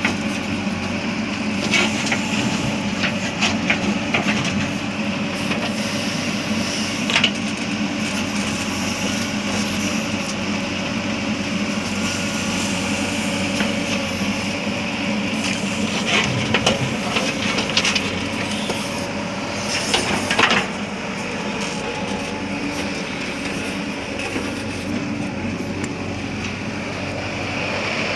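Diesel engine of a JCB backhoe loader running steadily while it loads soil into a tractor trolley, with scattered knocks and clatters from the bucket and dumped earth, the loudest about twenty seconds in.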